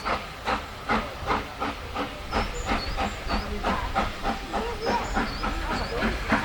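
Steam locomotive 30506, an LSWR S15 class 4-6-0, working with a regular chuff of exhaust beats, about three a second, over a steady hiss of steam.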